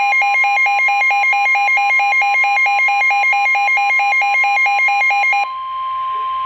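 Weather radio alert tone for a severe thunderstorm warning: rapid, even beeping over a steady tone of about 1 kHz, the NOAA Weather Radio warning alarm. The beeping stops about five and a half seconds in, leaving the steady tone alone.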